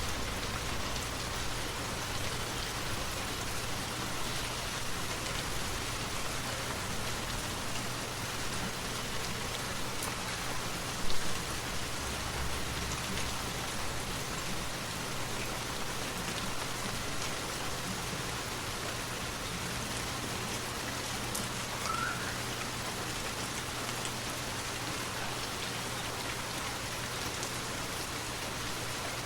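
Steady rain falling, an even wash of drops, with a brief louder sound about eleven seconds in.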